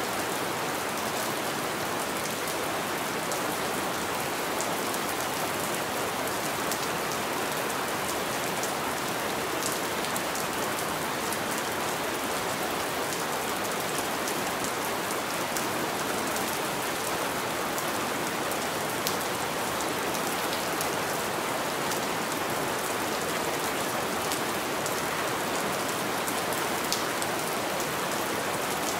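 Steady rain falling on a window: an even hiss with scattered sharper ticks of single drops.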